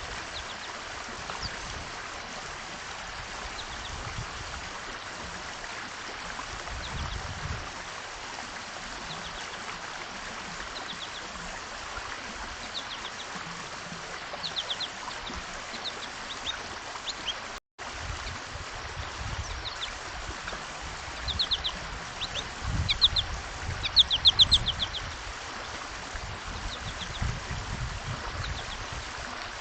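Small songbirds at a feeder chirping: short, high notes, scattered at first, then quick rapid runs of chirps in the second half. Under them runs a steady rushing hiss with occasional low rumbles, and the sound cuts out for an instant a little past halfway.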